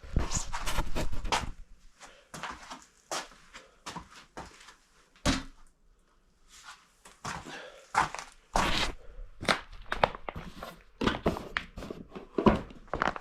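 Irregular thuds and scuffs of someone moving and stepping about, with one sharp knock about five seconds in.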